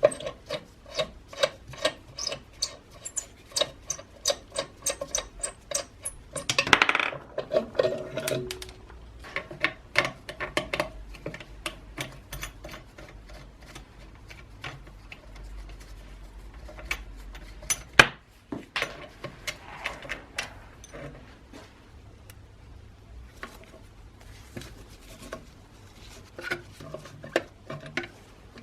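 Hand tools and metal parts clicking, clinking and knocking as they are handled on a workbench. One heavier knock about seven seconds in leaves a short metallic ring, and a sharp single knock comes about two thirds of the way through.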